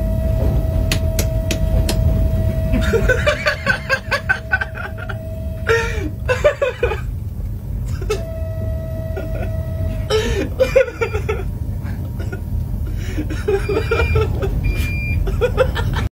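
Steady low rumble of a train in motion heard from the cab, with a long steady horn blast lasting about six seconds and a second, shorter blast about eight seconds in. Voices talk and laugh over it.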